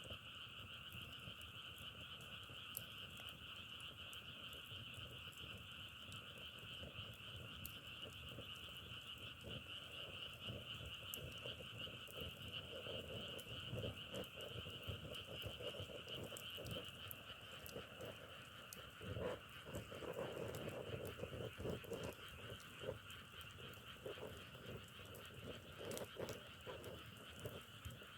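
Chorus of many frogs calling steadily, with closer croaking calls joining in from about halfway through, and scattered faint clicks.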